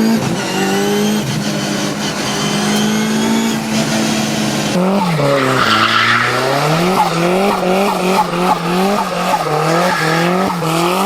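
A performance car engine held at steady high revs with its tyres skidding. About halfway through the revs drop, then surge up and fall back over and over, roughly twice a second. A screech of tyre squeal comes just after the drop.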